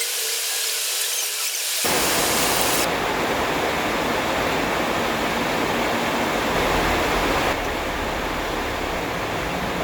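A steady rushing hiss with no pitch or rhythm, which becomes louder and fuller about two seconds in.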